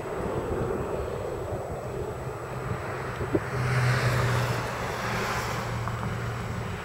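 Boeing 737-500's twin CFM56 turbofan engines on approach to land: a steady low hum, with a hiss that swells and grows louder about halfway through as the jet draws nearer.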